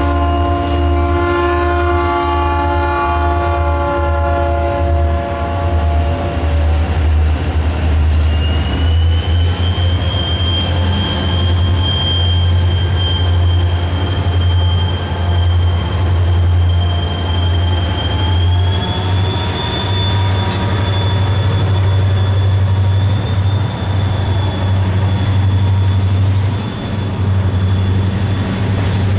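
Diesel locomotive air horn sounding a multi-tone chord at close range as SD40-2 locomotives pass, dying away about six or seven seconds in. The locomotives' engines and the freight train rumble by, with a steady high wheel squeal setting in about eight seconds in and continuing.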